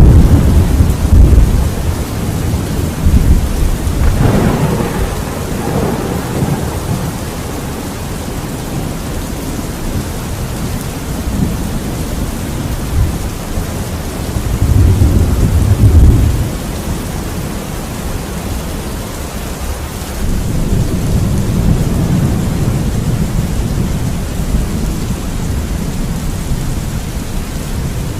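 Thunder rumbling over steady rain. Low rolls come near the start, about four seconds in and loudest at about fifteen seconds, then a longer roll runs through the last third.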